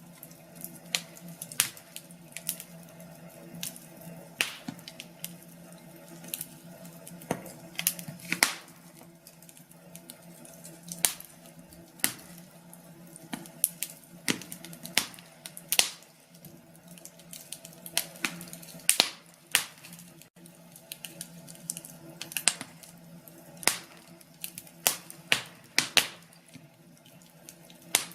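Wood fire burning in a fireplace, crackling with irregular sharp pops, some louder than others, over a steady low background.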